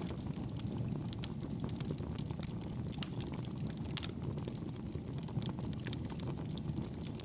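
Wood fire burning in a fireplace: a low, steady rush with many small, irregular crackles and pops.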